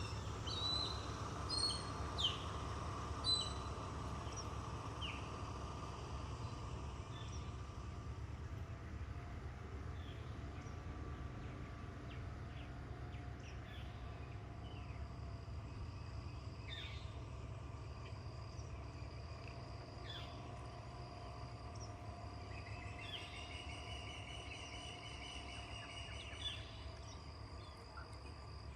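Outdoor nature ambience: birds chirping and calling now and then over a steady low rumble. In the second half a thin, steady, high insect-like drone joins, and a trill is heard near the end.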